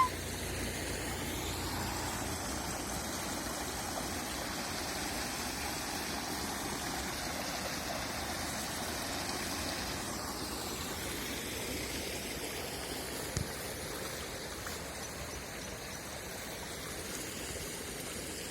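Flowing water rushing steadily, a stream or small waterfall, with one brief click about thirteen seconds in.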